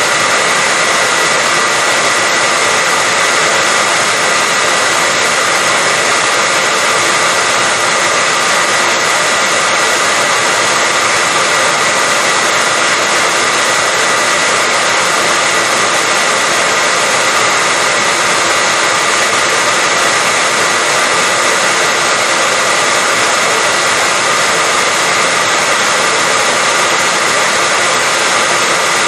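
Hair dryer running continuously at a constant setting: a steady rush of blown air with a high-pitched whine held at one pitch.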